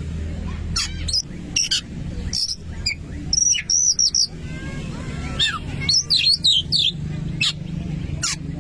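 Oriental magpie-robin (kacer) singing: a run of short, sharp whistled notes and quick chattering phrases, over a steady low hum.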